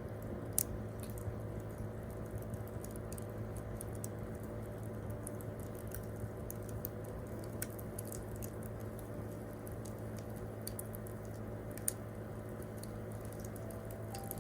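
Wood campfire crackling: irregular small pops and snaps, a few louder ones, over a steady low background.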